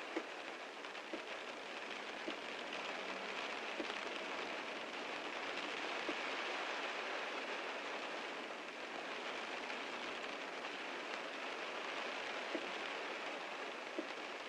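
Heavy rain falling steadily on a car, with a few louder single drops striking now and then.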